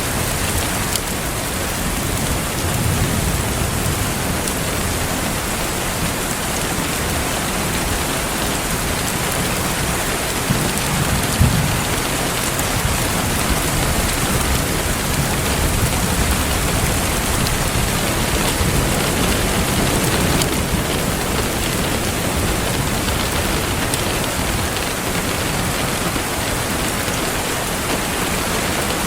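Steady rain falling, with low rumbles swelling now and then and one short sharp pop about eleven seconds in.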